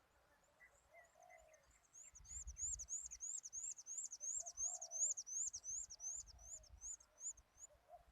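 Birds calling: a rapid series of high, sharp chirps, about three to four a second, starts about two seconds in and stops shortly before the end, with a few lower cooing notes in between.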